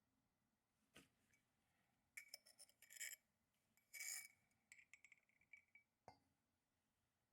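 Faint clinks and clicks of tableware being handled: a few light knocks, a clink that rings briefly a little past the middle, a run of small ticks, and a duller knock near the end.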